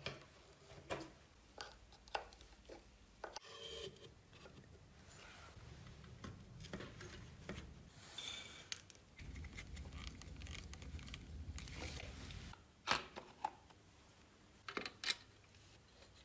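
Workshop handling noises: scattered light clicks and knocks with stretches of rubbing or scraping. A low hum runs from about five seconds in and stops suddenly past the middle, and two sharper knocks come near the end.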